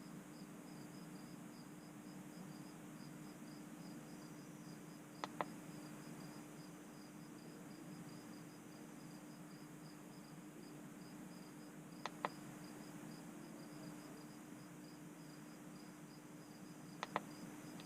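Faint, steady, rapidly pulsing chirping of a cricket over a low steady hum, with a few soft clicks, mostly in pairs, about 5 and 12 seconds in and near the end.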